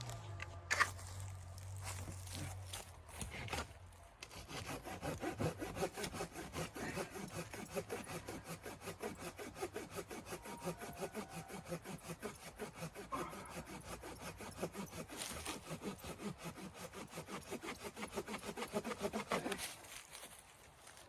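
Hand saw cutting through wood in quick, even back-and-forth strokes, about three a second. The sawing starts about four seconds in and stops near the end.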